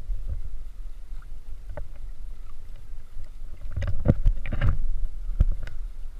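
Sea water sloshing and splashing close to the microphone over a steady low wind rumble, with a burst of splashes about four seconds in and a sharp knock about a second later.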